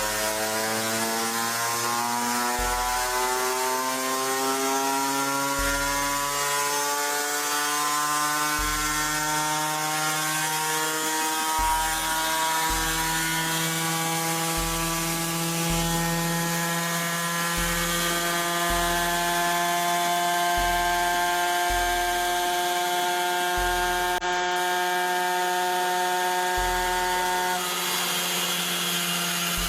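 Small mini bike engine running, its pitch rising gradually over the first several seconds as it speeds up, then holding a steady pitch.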